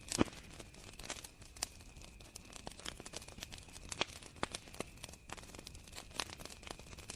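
Wood fire crackling, with irregular sharp pops and snaps, the strongest just after the start. A steady high cricket trill runs underneath.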